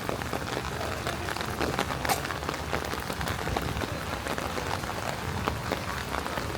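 Steady rain falling on a city street: a dense patter of small drops, with one sharper tick about two seconds in.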